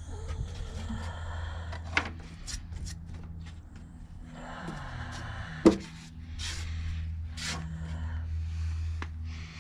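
Hand bodywork noises: rubbing and scraping strokes with a few sharp knocks, the loudest just over halfway through, over a steady low hum.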